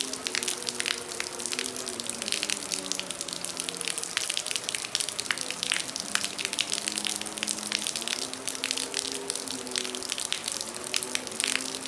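Heavy rain falling steadily, a dense patter of drops over a constant hiss. Behind it a quieter melodic line of long held notes steps up and down in pitch.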